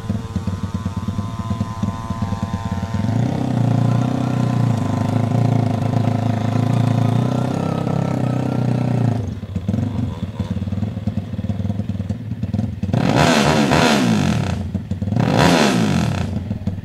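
Small four-stroke drag-racing motorcycle engine (under 160 cc) idling, then held at a higher steady speed for several seconds, then revved hard twice near the end, each rev rising and falling.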